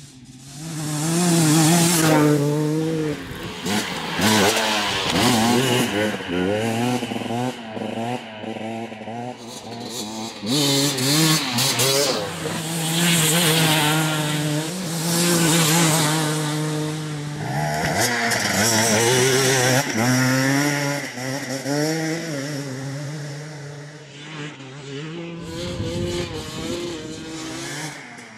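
Husqvarna TX250 single-cylinder two-stroke dirt bike engine revving hard, its pitch climbing and dropping over and over as the throttle is opened and closed.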